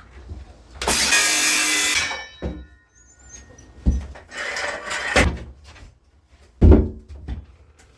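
Circular saw cutting through wood in a loud burst of about a second, its whine fading away after. Then a softer stretch of noise and a few sharp wooden knocks.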